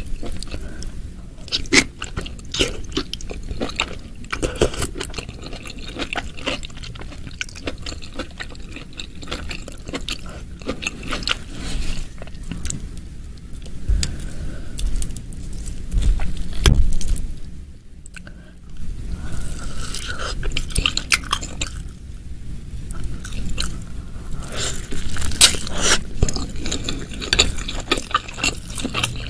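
Close-miked chewing and biting of a jumbo bakso meatball and shimeji and oyster mushrooms in thick spicy sauce: wet, sticky mouth sounds with small crunches, and a metal fork scraping against the glass bowl.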